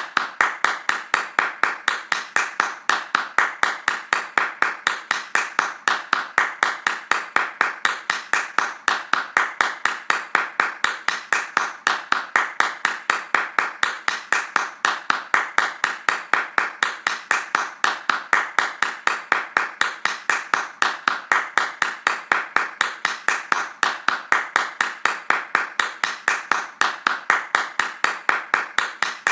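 Hands clapping fast in an even, unbroken rhythm of about four to five claps a second, each clap sharp and alike in loudness.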